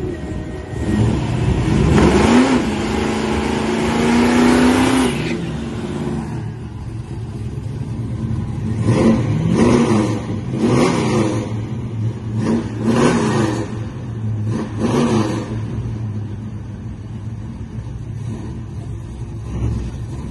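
Dodge Dart Sport's 360 V8 revved up and held high for a few seconds, then blipped several times in quick succession before settling back to a steady idle.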